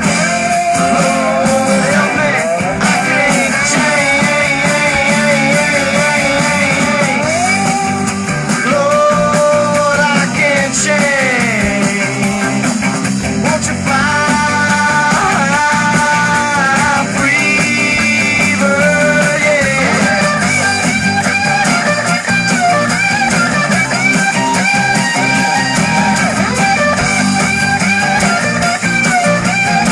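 Rock music in which an electric guitar plays a lead line full of bent and sliding notes over a full band.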